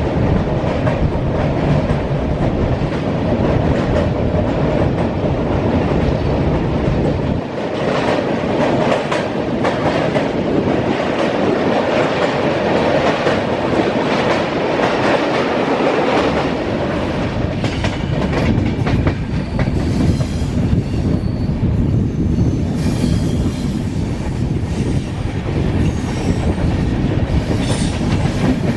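Passenger train running at speed, wheels clattering over rail joints with a steady running noise. The deep rumble drops away for several seconds a quarter of the way in, then returns.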